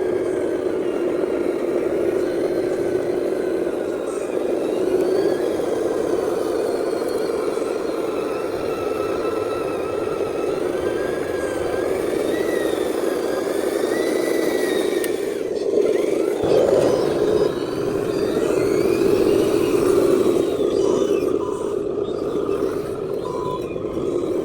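Scale RC dump truck's electric drive motor and gearbox whining steadily, the pitch wandering up and down with the throttle. It grows louder for a stretch about two-thirds of the way through.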